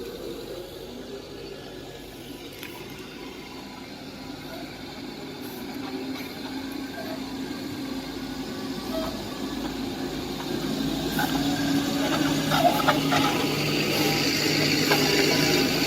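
Heavy diesel engine running steadily and growing louder over the second half, with a few short knocks.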